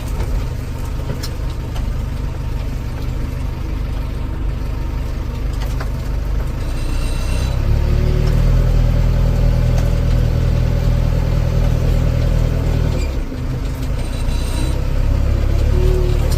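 Diesel engine of heavy farm or construction machinery running steadily. It grows louder about seven seconds in, drops briefly about thirteen seconds in, then picks up again.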